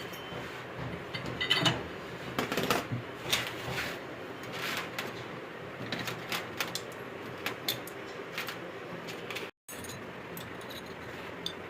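Metal tools and bolts clinking and knocking irregularly during turbocharger work, over a steady workshop hum. The sound cuts out for an instant about three quarters of the way through.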